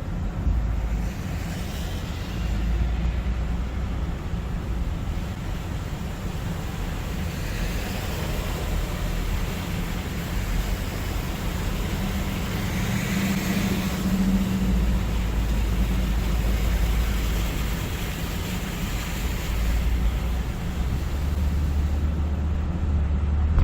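Hurricane wind gusting, with a heavy low rumble of wind buffeting the microphone under a rushing noise that swells with the gusts.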